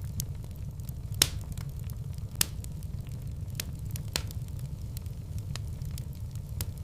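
Wood fire burning in a fireplace: a steady low rumble with irregular crackles and pops, two louder pops about a second and two and a half seconds in.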